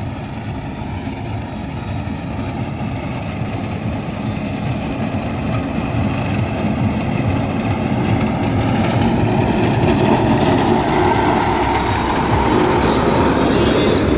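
Tractor engine running steadily, growing gradually louder through the clip.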